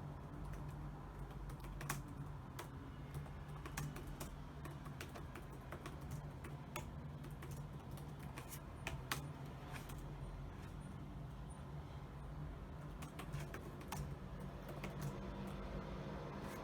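Typing on a computer keyboard: irregular runs of light keystroke clicks with a few louder key presses, over a steady low hum.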